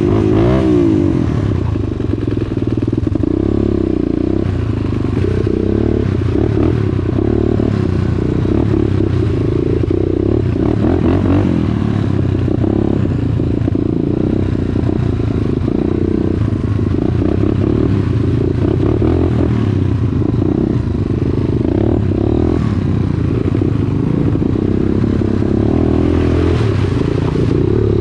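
Dirt bike engine running hard on a trail ride, its revs rising and falling, with knocks and rattles from the bike going over rough ground.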